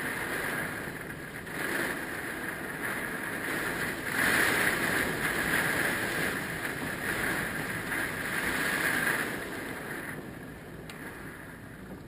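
Hurricane-force wind blowing in gusts, strongest in the middle and easing near the end.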